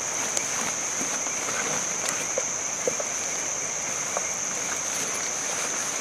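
Outdoor ambience: a steady high-pitched insect chorus, cricket-like, over an even hiss, with a few scattered small ticks and taps.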